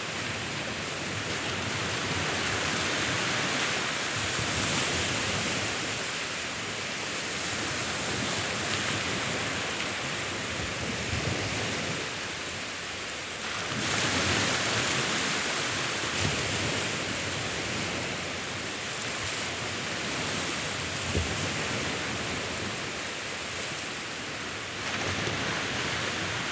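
Sea waves washing onto a shore in a continuous rushing hiss, with a swell rising and falling about every ten seconds.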